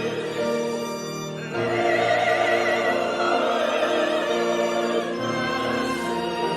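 Church choir singing held chords of a Christmas choral piece, with a violin. The music dips briefly, then swells with a fuller new phrase about a second and a half in.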